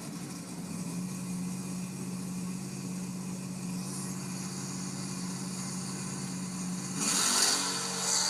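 Street-race car engines idling steadily, then a sudden loud rush of noise about seven seconds in as the cars launch.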